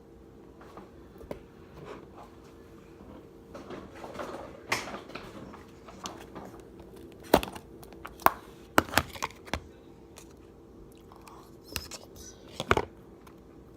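Slime being handled, with soft crinkly squishing and several sharp pops or clicks, the loudest a little past halfway and near the end, over a faint steady hum.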